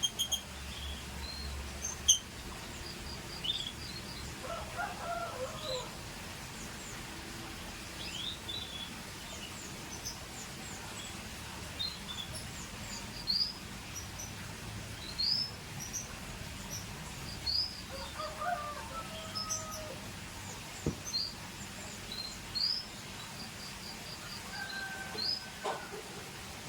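Scotch Fancy canary giving short, high chirps, one every second or two, over a steady background hiss. There are a few lower-pitched calls in between, and a sharp click about two seconds in.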